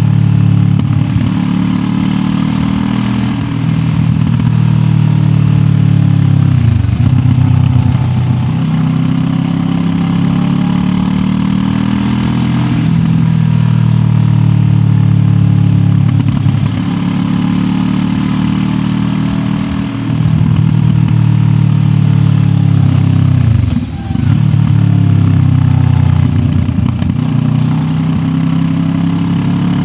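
QJ Motor SRT 700X parallel-twin engine under way. The engine note drops and picks up again several times as the rider closes and reopens the throttle and changes gear.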